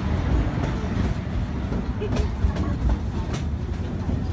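Cedar Point & Lake Erie Railroad steam passenger train rolling along the track: a steady low rumble from the riding car, with a few sharp clacks of the wheels over the rails.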